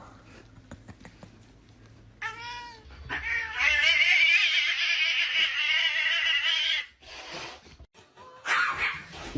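A domestic cat gives a short meow, then a long drawn-out yowl lasting about four seconds. A brief burst of noise follows near the end.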